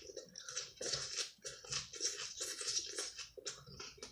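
A person chewing a mouthful of raw romaine salad with cucumber and onion: crisp, wet crunches, about three a second.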